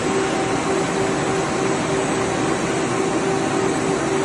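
A machine running steadily: an even rushing noise with a constant low hum, unchanged throughout.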